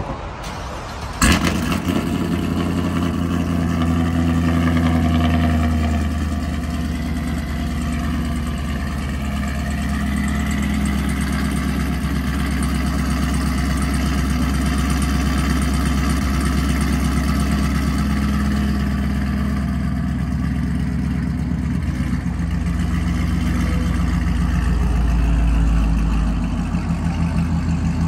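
Chevrolet Camaro SS's 6.2-litre V8, just fitted with long-tube headers, starting up about a second in with a sharp crack. It runs faster and louder for a few seconds, then settles into a deep, steady idle, and swells again for a moment near the end.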